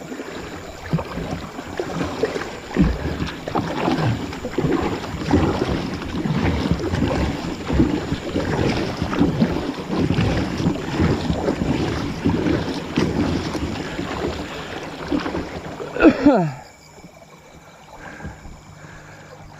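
Water splashing and churning around a kayak being paddled upstream against the current, loud and irregular with many short splashy strokes. It cuts off suddenly about sixteen seconds in after a short falling tone, leaving much quieter water sound.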